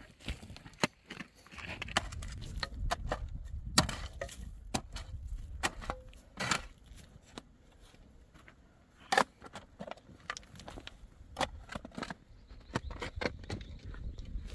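Irregular sharp knocks and clacks of hard objects being struck or handled, the loudest about four, six and a half and nine seconds in, over a low rumble that comes and goes.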